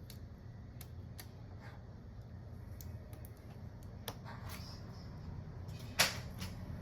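Light scattered clicks and taps of small hand tools and parts during a smartphone screen repair, with one sharper click about six seconds in, over a steady low hum.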